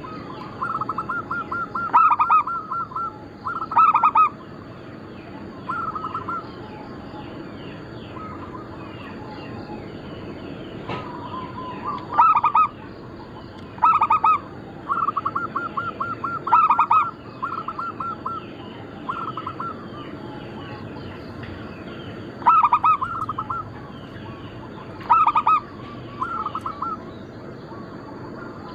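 Zebra dove (perkutut) cooing: repeated phrases of quick stuttering coos, several ending in a few louder, stronger notes, coming every couple of seconds. A faint steady high tone and fainter chirping sit behind it.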